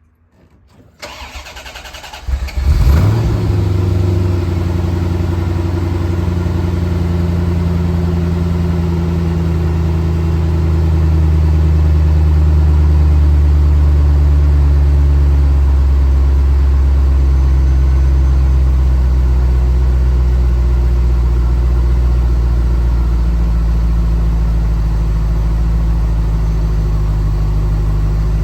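Honda Insight (ZE1) three-cylinder petrol engine being cold started: the starter cranks briefly, the engine catches about three seconds in and settles into a steady fast idle. The idle grows a little louder after about ten seconds, and its pitch dips slightly a few seconds later.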